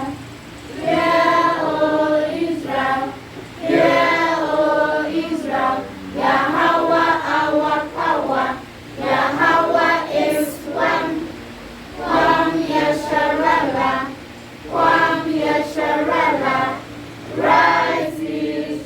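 A choir singing in short phrases of a second or two, with brief breaks between them.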